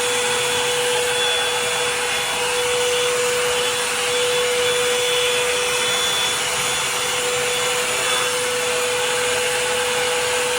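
Revlon hot-air dryer brush running steadily, its fan blowing with a steady whine over the rush of air, as it is worked through a section of hair.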